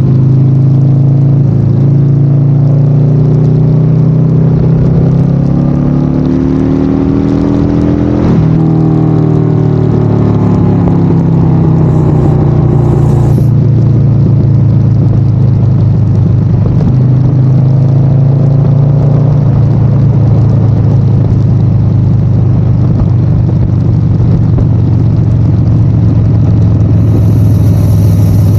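Harley-Davidson Sportster 1200's V-twin engine running loud under way. Its pitch climbs over the first several seconds, drops suddenly about eight seconds in, climbs again, then holds fairly steady.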